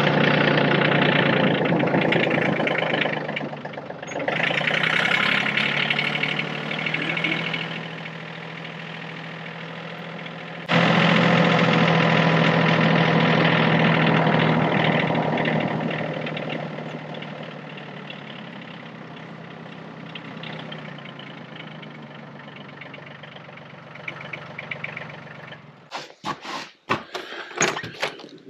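Yanmar tractor's diesel engine running steadily, its level rising and falling, then fading from about halfway. The engine sound stops a couple of seconds before the end and gives way to a quick run of sharp knocks and clatter.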